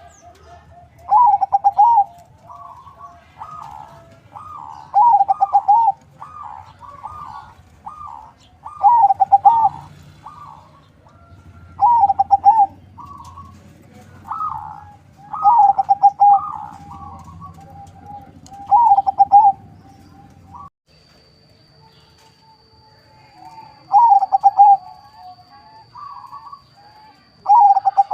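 Zebra dove (perkutut), a Bangkok × local crossbred, cooing: loud rolling, pulsed coo phrases about a second long repeat every three to four seconds, with softer coos in between.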